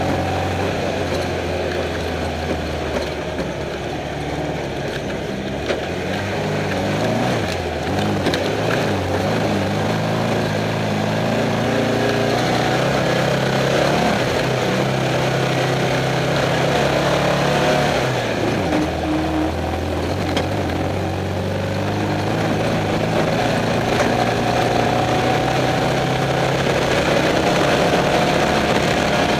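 Off-road race car's engine running under way, heard from inside the car over a steady rush of road and wind noise. Its pitch dips and climbs back a couple of times as the throttle comes off and goes back on.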